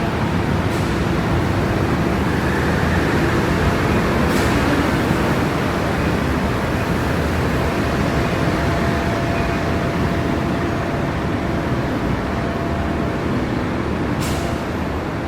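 Steady city street traffic noise from vehicles running on wet roads, with a few faint clicks.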